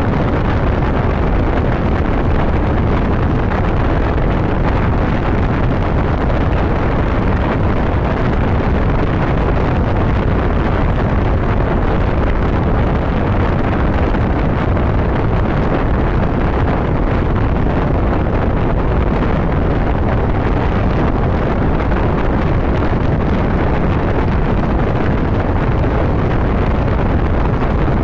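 Motorcycle ridden at road speed: a steady rush of wind on the microphone mixed with engine and road noise.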